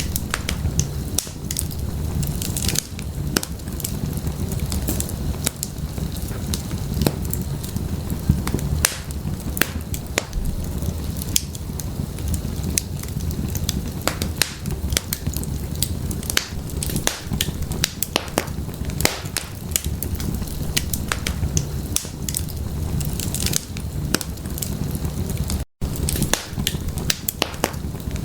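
Wood fire crackling in a fireplace: frequent sharp pops and snaps over a steady low rumble of flame, with a split-second dropout near the end.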